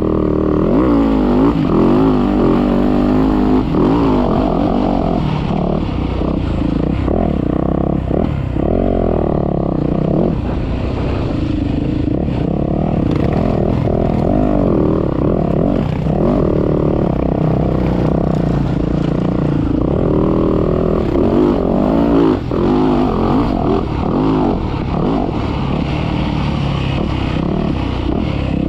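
Dirt bike engine being ridden hard, its pitch rising and falling over and over as the rider revs and shifts through corners and straights.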